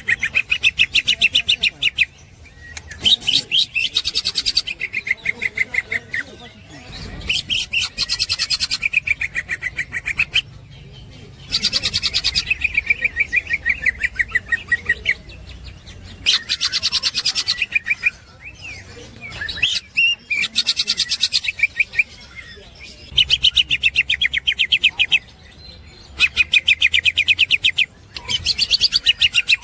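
Greater green leafbird (cucak ijo) singing its 'ngekek' song: bouts of very fast, repeated high chattering notes, each lasting two to three seconds, broken by brief pauses.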